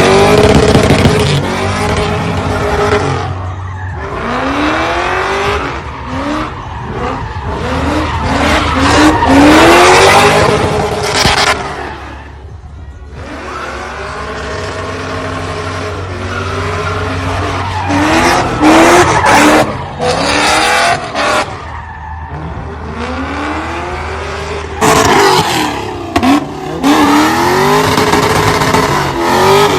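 A car engine revving up and down again and again while the tires squeal and spin during donuts, with short lulls between loud passes.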